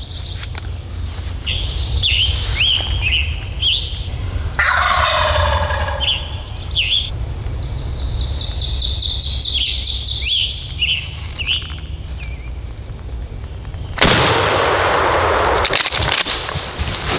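Wild turkey gobbler gobbling close by, with short high calls around the gobbles. A sudden loud, noisy burst near the end lasts a couple of seconds and is the loudest sound, over a steady low rumble.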